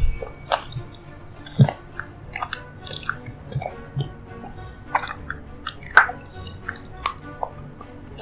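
Close-miked chewing of a soft dessert: irregular wet mouth clicks and smacks, a few of them sharper and louder, about 1.5, 6 and 7 seconds in.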